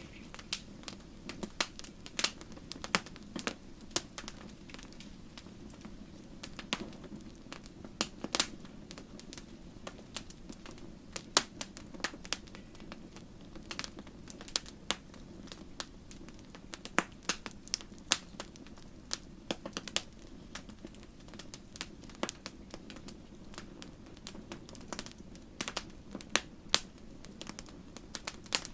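Wood fire crackling: irregular sharp pops and snaps, several a second at times, over a steady low hiss of burning.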